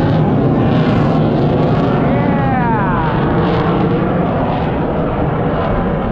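Loud aircraft engine noise from a low-flying airshow aircraft. Its whine drops in pitch as it passes, a little over two seconds in.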